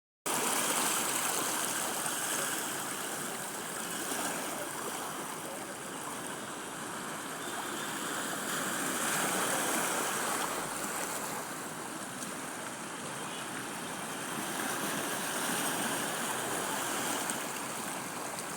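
Sea surf washing onto a beach, a steady rush of water that swells and eases every few seconds.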